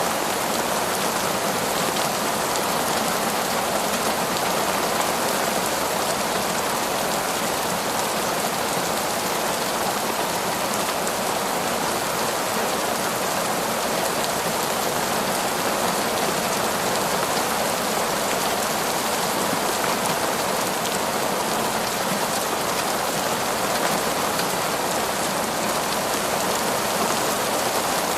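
Heavy torrential rain falling on forest foliage, a steady, even downpour.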